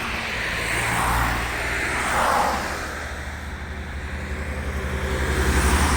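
Road traffic passing close by: cars swooshing past twice in the first few seconds, then a deeper engine rumble growing louder toward the end as another vehicle approaches.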